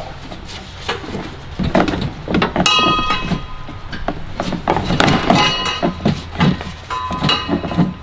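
Metal knocks and clanks from hand tools working on a car's exhaust as it is pried off its rubber hangers, several hits leaving the pipe ringing briefly, about three times.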